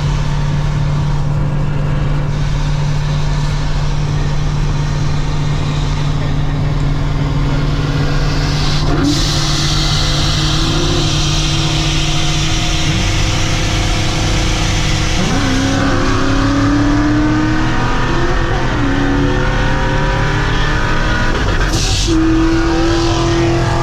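Car engine running under way over steady road noise. Its pitch shifts abruptly three times: about nine seconds in, around sixteen seconds, and near the end.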